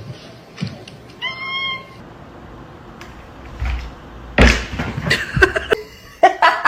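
A cat meows once, briefly, about a second in. Later there is a sudden loud thump, followed by several sharp knocks and clattering.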